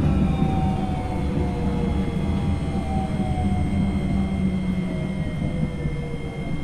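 Tokyo Monorail 2000 series car running, heard from above its traction motors. The Hitachi IGBT VVVF inverter and motors give a whine whose pitch falls slowly as the train slows, over a steady high tone and a low rumble.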